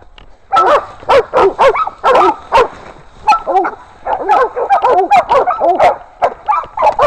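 Catahoula hog dogs barking in rapid volleys, several voices overlapping: bay barking at a hog cornered in a thicket. The barking breaks off briefly about three seconds in and again near the end.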